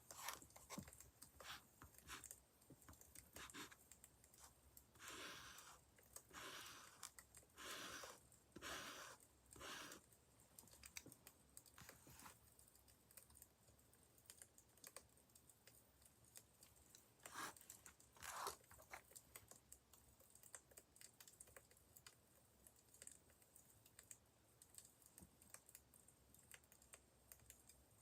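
Faint crackling of a wood fire: scattered small pops and ticks, with clusters of louder crackles in the first third and again just past the middle.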